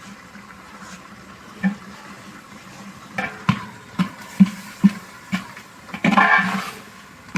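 Masala bubbling in a pot with a steady hiss, while a utensil knocks on the pot about twice a second from about three seconds in; near the end there is a short, louder rushing noise.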